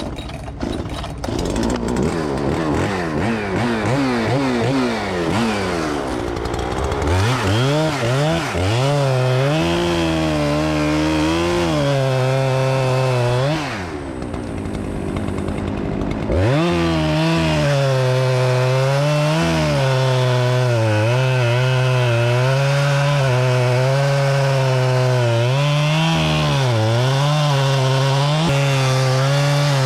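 Chainsaw revving up and down, then cutting at full throttle, its pitch sagging slightly as the chain takes load; about halfway through it drops to a lower, quieter run for a couple of seconds, then goes back to full throttle in the cut.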